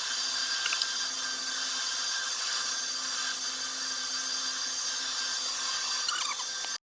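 A power tool running steadily with a high hiss and whine, stopping abruptly near the end.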